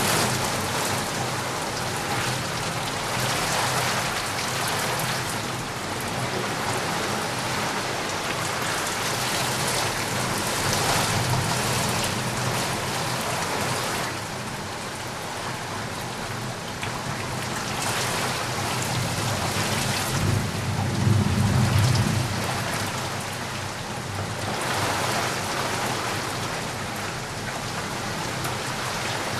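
Steady heavy rain falling on surfaces, a dense hiss that swells and eases every few seconds. A low rumble runs beneath it and grows loudest about two-thirds of the way through.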